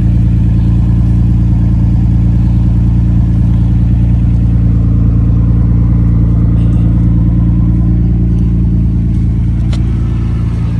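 Nissan Skyline's engine idling steadily.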